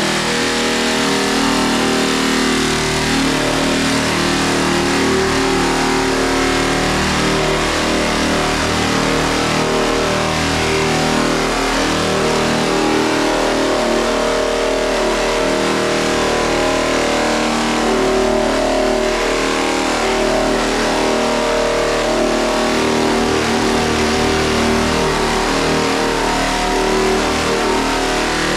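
Long-board power sander running steadily, loud, as it sands body putty on a truck's body panel: a constant mechanical hum under a broad sanding hiss.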